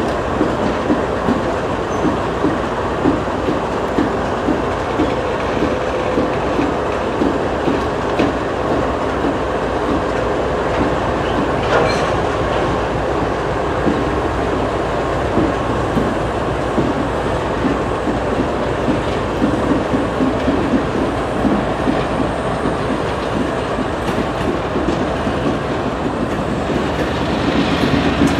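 Freight cars of a long train (autoracks, a tank car, boxcars) rolling past close by, their wheels keeping up a steady rhythmic clatter on the rails.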